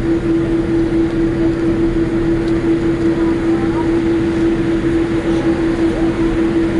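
Steady cabin noise inside a Boeing 787-8 Dreamliner taxiing after landing: an even rumble and rush of air with one constant hum.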